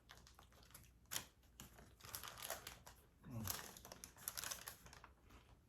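Quiet crinkling and rustling of paper and plastic takeout food packaging, a scatter of small crackles and clicks.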